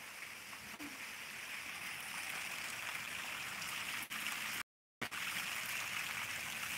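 Heavy rain falling steadily, an even hiss. The sound cuts out for about half a second about two-thirds of the way through.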